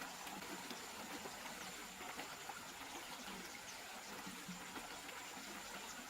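Water trickling and splashing steadily, with many small drips and a thin, steady high whine behind it.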